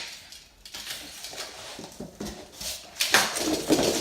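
Thick corrugated cardboard being scored along a fold line with a utility knife and bent by hand along the crease: irregular scraping and crackling, loudest about three seconds in and again near the end.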